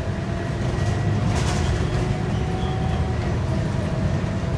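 Scania DC9 five-cylinder diesel engine of a Scania K230UB bus running, heard from inside the bus as a steady low rumble with a thin steady whine over it. A short hiss about a second and a half in.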